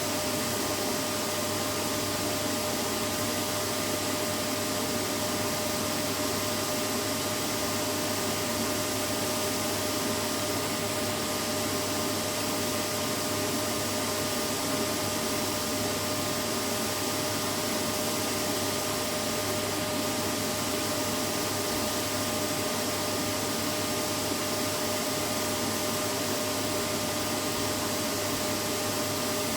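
Vacuum cleaner running steadily: an even motor hum and airflow rush that does not change.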